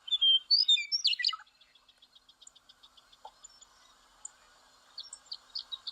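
Western meadowlark singing: a short burst of loud, flute-like whistled notes falling in pitch over the first second and a half. It is followed by a faint, rapid run of high chirps.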